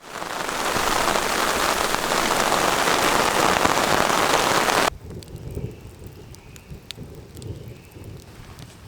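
Heavy rain pouring down, cutting off suddenly about five seconds in. Then it is much quieter, with a low rumble and a few light ticks.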